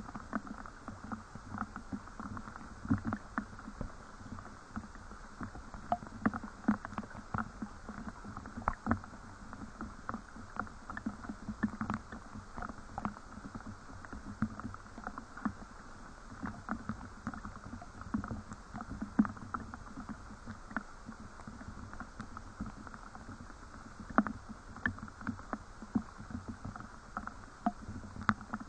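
Rain falling, with many irregular drops tapping close by over a steady hiss.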